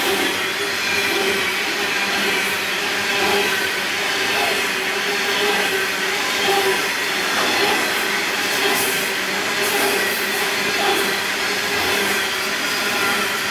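Coal wagons of a long freight train rolling past, a steady roar of steel wheels on rail with thin, steady squealing tones from the wheels.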